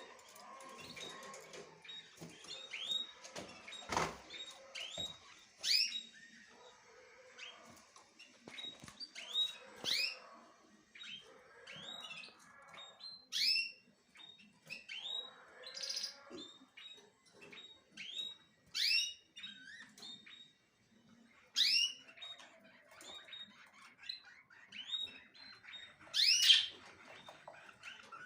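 Small birds chirping over and over, short upward-sweeping chirps several times a second, some louder than others. A single short knock sounds about four seconds in.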